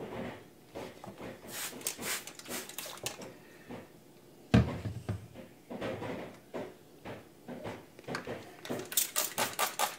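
Knocks and clatter of a wet whetstone and sharpening gear being handled, with one loud knock about halfway through. Near the end a quick, even run of short scraping strokes begins.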